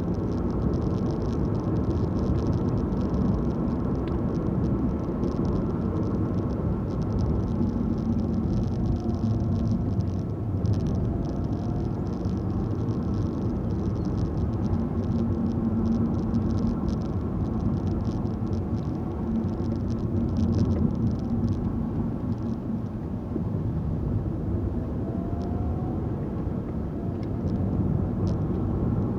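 Car driving along at steady speed: continuous engine and tyre road noise, a low even rumble.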